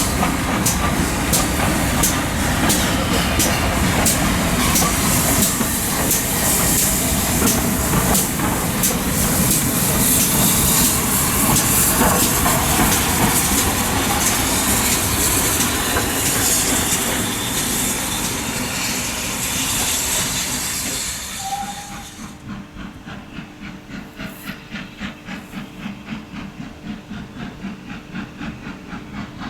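Steam locomotive working close by: a steady beat of exhaust over loud steam hiss. About three quarters of the way through, the sound drops suddenly to a quieter, regular pulsing.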